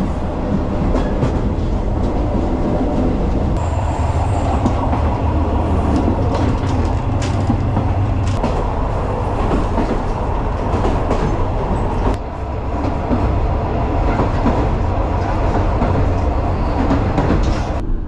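Yufuin-no-mori diesel sightseeing train running on the line: a steady low rumble with scattered clicks from the wheels and carriage.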